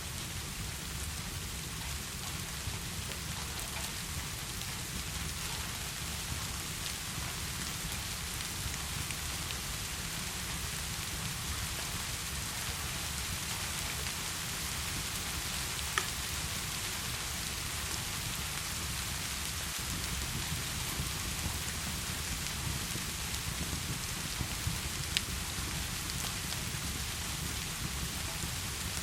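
Steady heavy rain, an even hiss of drops with a constant low rumble beneath it. A few sharp clicks stand out, one about halfway through and a couple more near the end.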